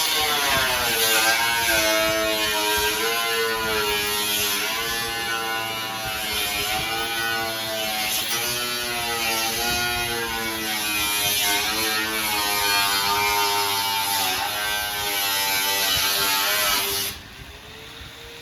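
Power cutting tool running and cutting into car-body sheet metal, its motor pitch repeatedly dipping and recovering as it bites, over a harsh hiss. It stops abruptly near the end.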